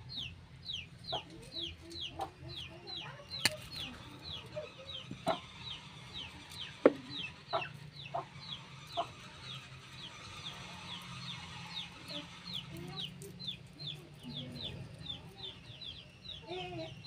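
Birds calling: a steady run of short, high, falling chirps about three a second, with lower clucking calls among them. A few sharp clicks break in.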